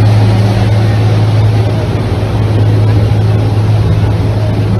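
Steady low drone of a boat's engine under way, with an even rush of wind and water noise over it.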